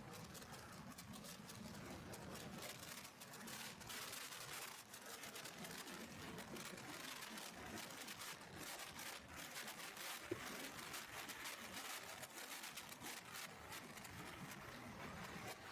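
Faint, crackling rustle and wind noise on the microphone of a camera carried in a backpack on a moving motorcycle, with no clear engine note. One sharper tap comes about ten seconds in.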